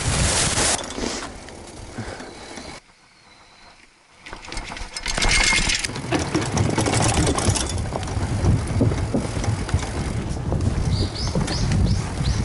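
Mountain bike riding noise on an action camera: wind rushing over the microphone and the bike rattling and clattering over rough trail and wooden boards. The sound drops away almost to silence for about a second around three seconds in, and a few short rising chirps come near the end.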